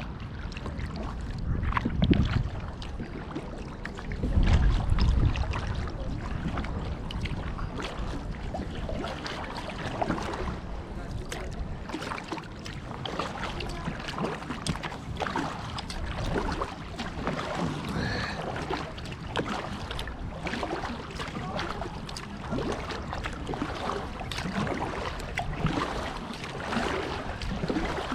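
Water splashing and lapping around an inflatable kayak being paddled, with irregular small splashes throughout. Wind buffets the microphone in two strong gusts, about two and five seconds in.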